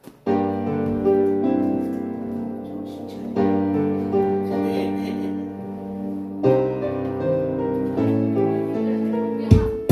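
Instrumental song intro played on an electronic keyboard: sustained chords under a melody line, the chord changing about every three seconds. Near the end a drum hit comes in as the beat starts.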